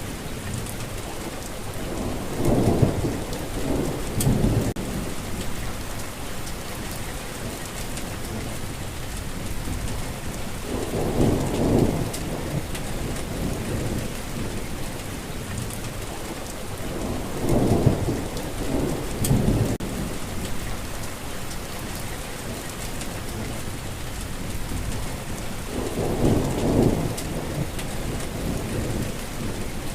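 Steady heavy rain falling, with thunder rumbling low four times, spaced several seconds apart.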